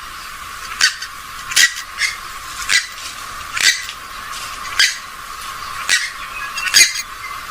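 Short, sharp squawking calls of a rail-family marsh bird, repeated evenly about once a second over a steady hiss.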